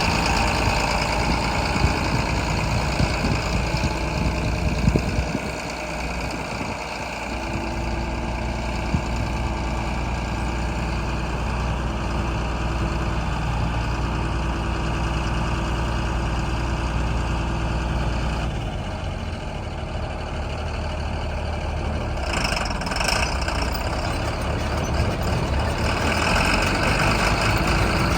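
Tractor engine and Hesston 7444 big square baler machinery running steadily. The running note shifts about six seconds in and again past the middle, and the sound grows louder near the end.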